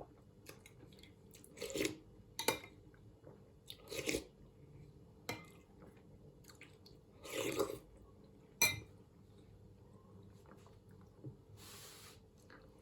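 Close-miked eating of mushroom soup: a series of short slurping and chewing sounds spaced a second or two apart, with one sharp click about two-thirds of the way through.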